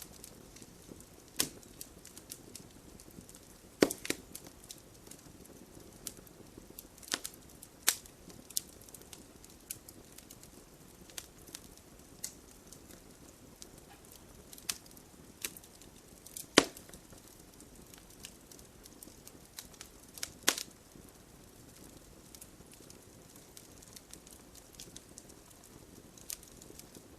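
Wood fire of burning logs in a fireplace crackling: a soft steady hiss with irregular sharp pops and snaps, a few louder ones standing out.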